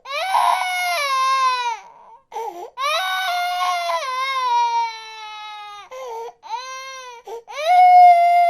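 Infant crying: a run of long, high wails that each slide slowly down in pitch, with short breaks for breath between them.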